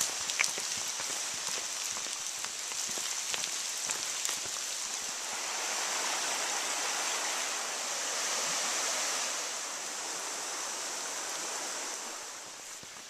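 Steady rush of running water, swelling to its loudest in the middle and fading near the end, with a sharp click near the start.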